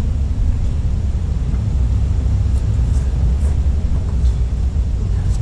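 Steady low rumble of wind buffeting the microphone outdoors, with a few faint ticks over it.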